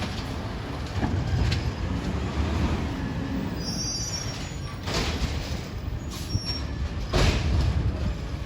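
Yard waste garbage truck working, its engine rumbling steadily under a brief high metallic squeal about four seconds in. Two short bursts of rushing noise come about five and seven seconds in.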